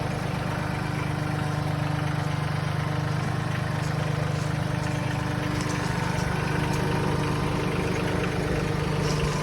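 Mahindra 1626 compact tractor's diesel engine running steadily at an even speed.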